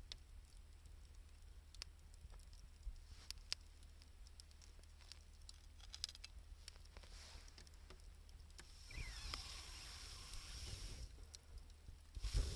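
Wood fire of scrap 2×4 lumber and gathered wood crackling with scattered sharp pops. About nine seconds in, a hiss with a faint whistling glide comes up for a couple of seconds, and another louder noisy patch starts near the end.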